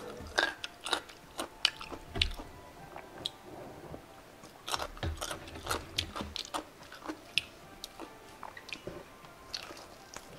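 Close-up chewing and crunching of Korean fried chicken, with irregular crackles of the fried crust and wet mouth sounds, and a fresh bite into a drumstick near the end.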